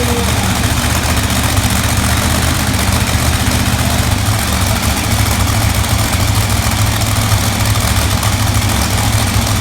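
Monster truck engine idling steadily, a loud low rumble with no revving.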